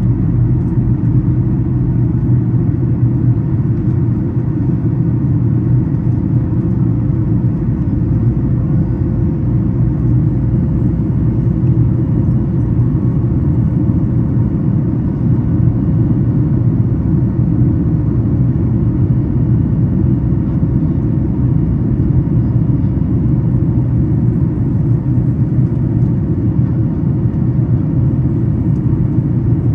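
Boeing 737 MAX 8 cabin noise during the climb after takeoff: the CFM LEAP-1B turbofans at climb power and the airflow over the fuselage make a loud, steady low rumble, with a faint steady hum above it.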